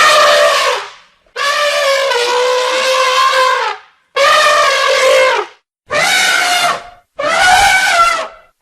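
Elephant trumpeting: five loud calls in a row with short gaps between them, the second the longest at over two seconds.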